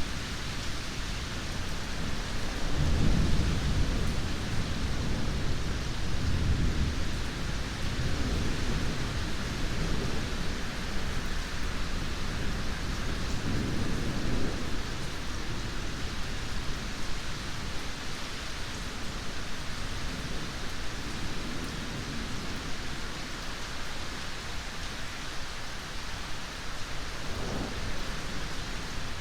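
Steady heavy rain with rolling thunder: a long low rumble builds about three seconds in and rolls on for several seconds, a second rumble swells about halfway through, and a short low crack comes near the end.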